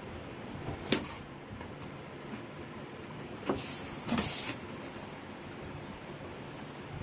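Packaging being handled during an unboxing: a sharp knock about a second in, then two brief scraping, rustling sounds about halfway through, over a steady hiss.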